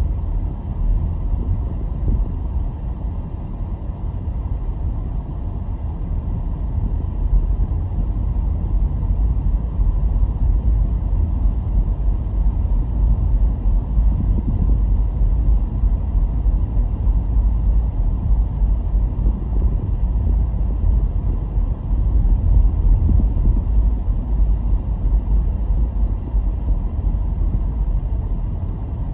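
A car driving along a road: a steady low rumble of engine and tyre noise, getting a little louder twice along the way.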